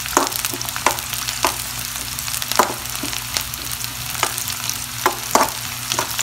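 Chopped onions, green chillies and curry leaves sizzling in hot oil in a metal kadai. A metal perforated ladle clicks and scrapes against the pan as it stirs, several sharp clicks a second over the steady sizzle.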